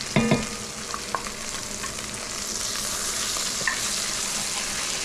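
Massaman curry paste sizzling as it fries in the fat of coconut milk that has been cooked down until its solids brown, in an enameled cast-iron Dutch oven. A short scrape of the knife against the jar comes at the start, and the sizzle grows louder about halfway through as the paste is stirred in.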